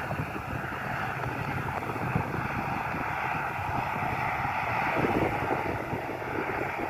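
Aircraft engine noise, a steady rush that eases slightly after the middle, mixed with wind buffeting the microphone.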